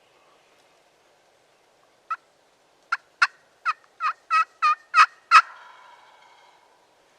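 A series of about nine turkey yelps, coming closer together and louder, the last one echoing away.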